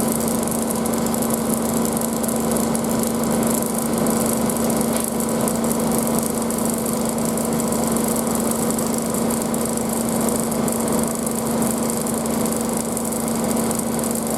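Front-loading washing machine in its final spin at about 1600 RPM: a steady motor hum with a strong low tone and fainter higher tones over the rush of the spinning drum, holding an even speed.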